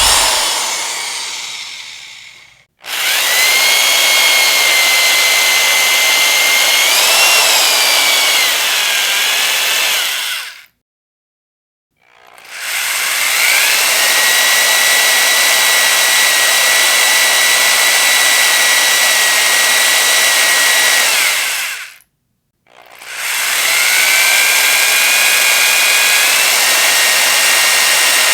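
Electric power drill motor running in three long bursts with a high whine, stopping dead twice for about a second each time. Each burst winds up to speed as it starts, and the pitch wavers and rises briefly in the first run and steps up during the last.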